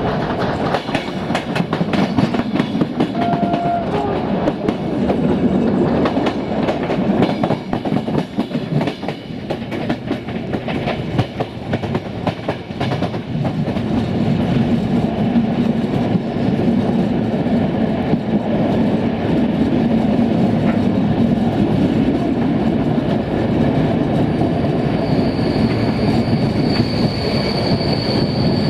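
Passenger train running along jointed track, heard from an open coach window: a steady rumble of the coaches with wheels clicking over rail joints and points. Near the end a thin, steady, high-pitched wheel squeal joins in.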